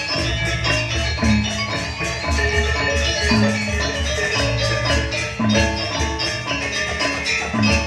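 Janger gamelan accompanying a dance: metallophones ring a busy, even pattern over drums. A low note that drops in pitch comes back about every two seconds.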